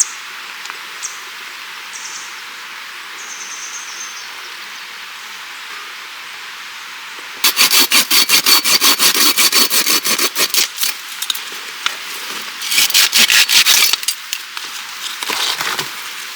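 A small hand saw cutting through wood in fast, even back-and-forth strokes, in a run of about three seconds halfway through, then two shorter runs near the end. A steady rushing hiss lies underneath, with a few short high chirps early on.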